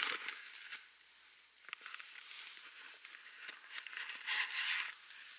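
Irregular rustling and crinkling, loudest at the start and again about four to five seconds in.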